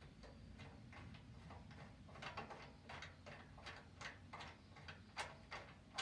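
Faint, irregular light clicks and ticks, two or three a second, over a low steady rumble.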